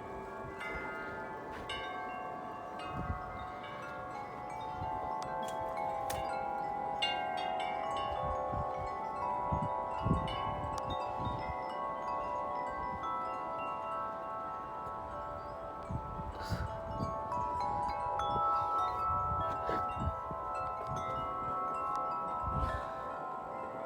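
A collection of large tuned tubular wind chimes ringing continuously in strong wind, many pitches struck again and again and overlapping into a dense, sustained chord. Low gusts of wind buffet the microphone now and then.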